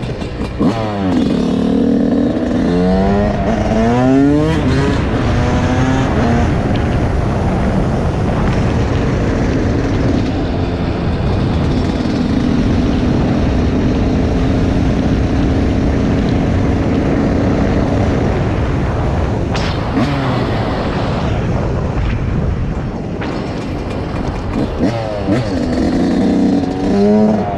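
Dirt bike engine revving hard while riding. Its pitch sweeps up and down repeatedly through the first few seconds and again near the end, and holds steadier in between.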